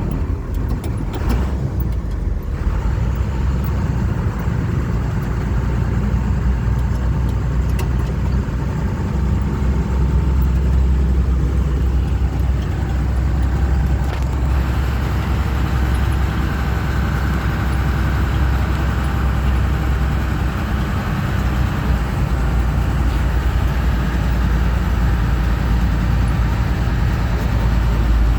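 Engine of an amphibious duck tour vehicle running steadily under way, a deep continuous drone heard from aboard, with a little more upper-range noise from about halfway through.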